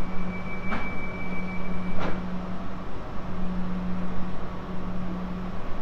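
A train running, a steady low hum with two sharp clicks, the first about a second in and the second about a second later.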